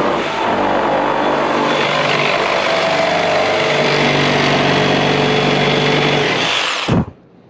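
Electric power tool running steadily at full speed, then switched off about seven seconds in, its pitch falling as the motor winds down.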